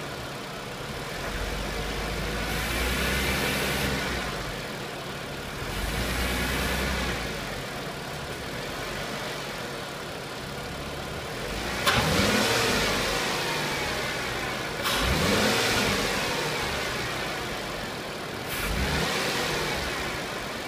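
Mercedes C32 AMG's supercharged V6 running and revved briefly several times, the engine note rising and falling with each rev. Three of the revs start with a sharp click. The owner is chasing a vibration he suspects comes from worn motor mounts.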